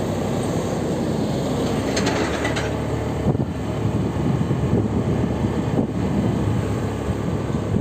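Steady low rumble of vehicle and road traffic noise, with a few faint ticks about two seconds in.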